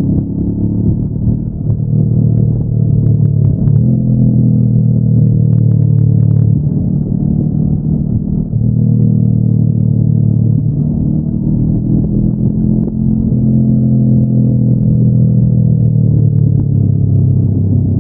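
Honda NX500's parallel-twin engine on its stock exhaust, running under way with a steady low drone. The pitch steps down about four seconds in and again around thirteen seconds, and after each step it sinks slowly.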